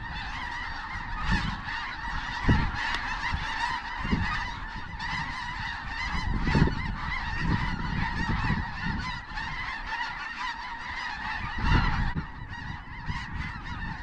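A large flock of snow geese calling, a dense chorus of many overlapping high honks with no pause, with occasional low rumbles underneath.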